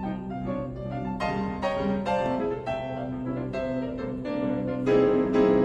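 Background piano music: struck chords and melody notes over a sustained bass, growing a little louder near the end.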